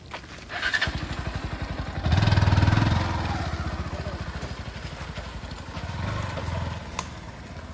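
A vehicle engine catches about a second in, revs up briefly, then runs on with an even throb, picking up again slightly near the end. A sharp click sounds near the end.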